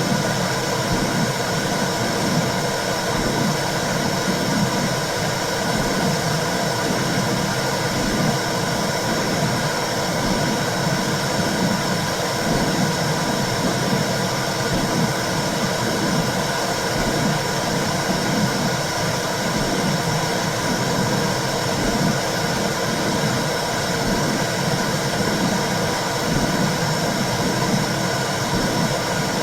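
Womb sound for soothing babies: a steady whooshing hiss with a low pulsing throb repeating at an even rhythm, like a mother's heartbeat and blood flow heard from inside the uterus.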